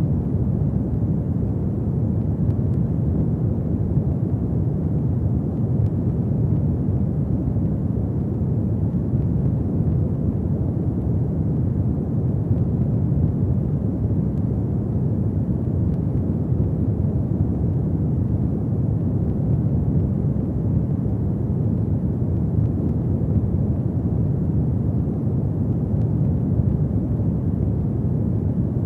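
Fireplace fire burning with a steady low rumble.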